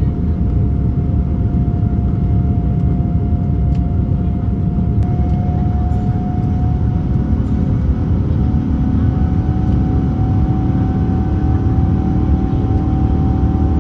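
Boeing 787-9's Rolls-Royce Trent 1000 engines heard from inside the cabin during takeoff: a loud, steady low rumble with a high engine tone that slowly rises in pitch.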